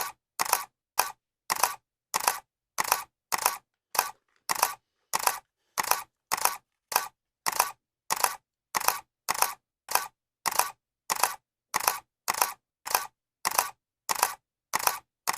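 Camera shutter clicking over and over at a steady pace, about three clicks every two seconds, each click a quick double snap.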